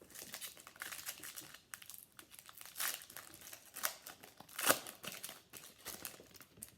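Foil trading-card pack wrapper being torn open and crinkled by hand, in irregular crackles with a louder crunch past the middle.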